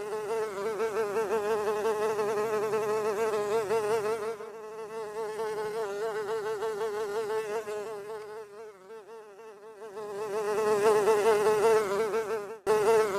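A fly buzzing in flight: a steady buzz that wavers quickly in pitch and swells and fades in loudness, with a brief break near the end.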